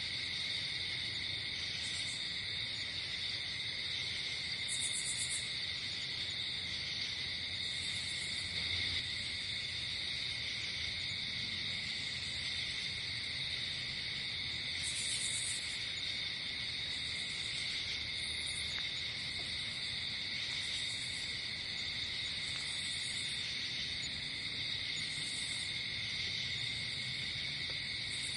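Night insect chorus: crickets chirring steadily and without a break, with a higher-pitched insect call pulsing in briefly every two to three seconds.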